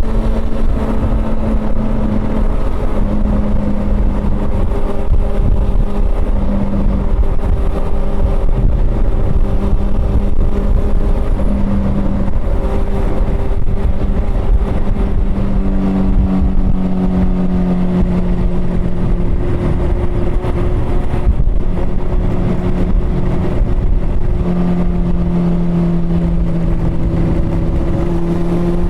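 Honda CB400 Super Four's inline-four engine running steadily on the move, its note holding nearly level with small rises and dips in pitch, over a strong low rumble.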